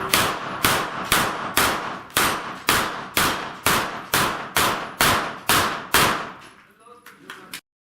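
A rapid string of gunshots at steel plate targets, about two shots a second, each followed by the ringing clang of steel being hit. The firing stops about six and a half seconds in.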